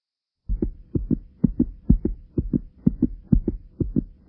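A rapid heartbeat-like pattern of paired low thumps, about two pairs a second, starting about half a second in, over a faint steady hum.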